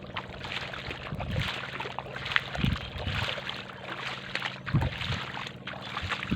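Footsteps sloshing through shallow water on a tidal flat, four heavy steps over a crackling wet hiss, with a steady low hum underneath.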